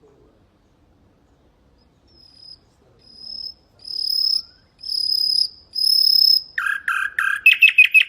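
Common nightingale singing: after a short pause, a series of long, pure high whistles, each louder than the last, then a fast rattling run of lower notes near the end.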